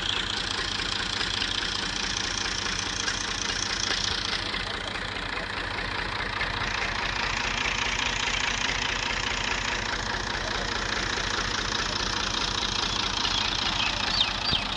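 Tractor's diesel engine running steadily with an even low pulsing beat, and a few short high-pitched ticks near the end.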